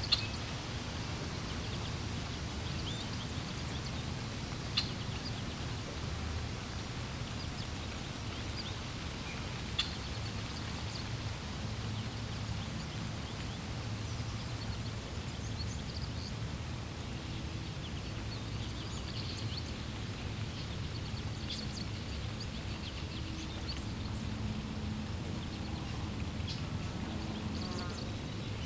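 Flowing water making a steady low rush, with scattered short, high bird chirps over it. A few sharp clicks stand out, one at the very start, one about five seconds in and one about ten seconds in.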